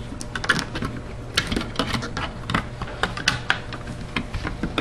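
Irregular clicks and light rattling of refrigerator parts being handled and fitted back into place, several sharp clicks a second.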